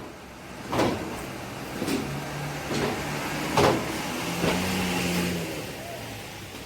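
Bus engine running low and steady, with a series of short sharp knocks about a second apart. The engine note swells about two-thirds of the way through, then fades.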